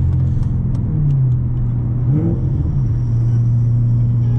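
Straight-piped 2014 Corvette C7 Stingray's 6.2-litre LT1 V8, running at light-throttle cruise with headers and full exhaust: a steady low drone that drops in pitch about a second in, rises and falls briefly just past two seconds, then holds steady.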